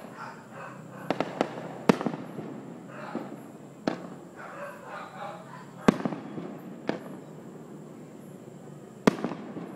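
Aerial fireworks bursting: sharp bangs at irregular intervals, a quick cluster of three just after a second in, and the loudest near two, six and nine seconds.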